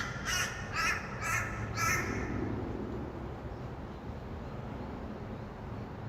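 A bird gives five harsh calls, about two a second, in the first two seconds, over the steady low hum of distant traffic.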